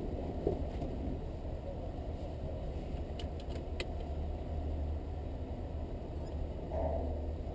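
Vehicle engine idling, a steady low rumble, with a few light clicks about three to four seconds in.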